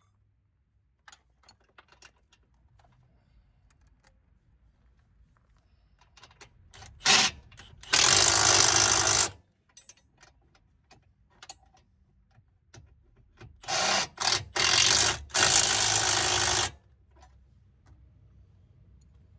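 Power tool, most like an impact wrench, run in loud bursts: a short burst and a longer one of about a second, then some five seconds later three bursts in quick succession. Light clicks and taps of tools and parts come in between.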